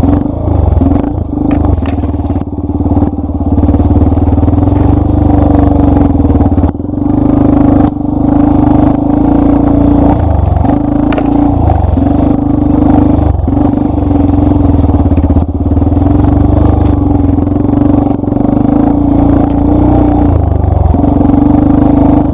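Yamaha Lander 250 single-cylinder four-stroke motorcycle engine running steadily on a dirt trail. The engine note dips briefly several times, as the throttle is eased off and picked back up.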